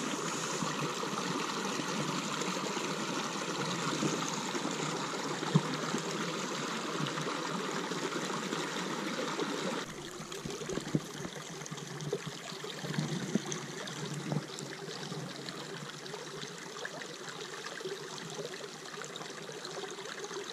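Small mountain stream running and trickling over rocks, a steady water sound that drops quieter about halfway through. A few light knocks follow the drop.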